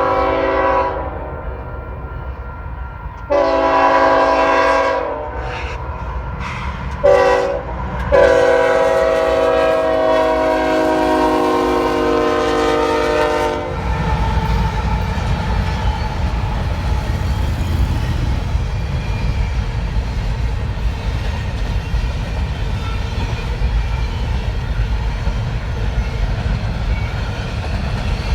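Freight locomotive's air horn sounding long, long, short, long, the grade-crossing signal, followed by the steady low rumble and wheel clatter of the freight train passing close by.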